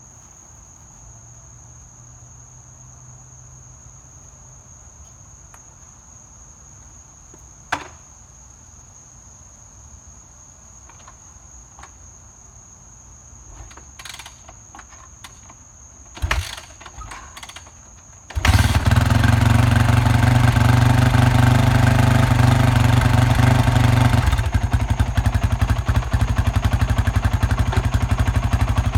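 2005 Yamaha WR450F's single-cylinder four-stroke engine, with an FMF Powerbomb header and Q4 slip-on, cold-started without the choke: after a few clicks and clatters it catches about eighteen seconds in and runs loudly, then settles to a lower, choppier idle about six seconds later. Crickets chirp steadily before it starts.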